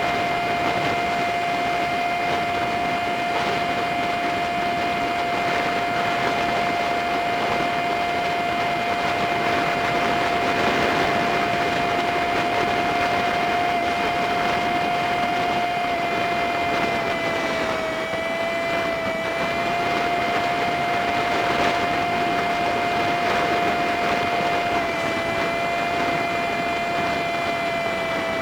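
Honda Super Cub 50 engine and wind noise on a dashcam, sped up so the engine becomes a steady high whine over a constant rush. The pitch dips slightly a couple of times as the engine speed eases.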